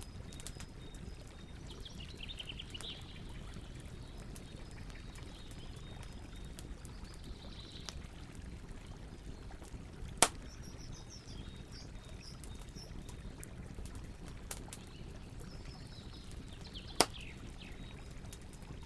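Campfire crackling with faint scattered ticks and two sharp loud pops, one about ten seconds in and one near the end, over the steady rush of flowing river water. Birds chirp in short descending runs now and then.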